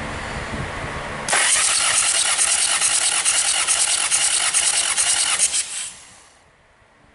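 Hyundai D4BH diesel engine being cranked for a compression test: a loud, rapidly pulsing hiss starts suddenly about a second in, runs about four seconds, then dies away.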